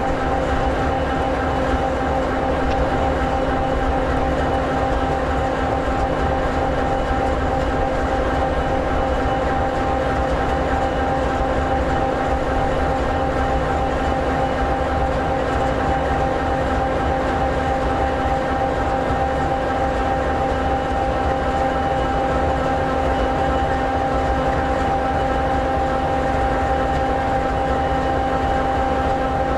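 SD60E locomotive's EMD 16-710G3B V16 two-stroke diesel idling: an even, unchanging drone with steady tones held over a low rumble.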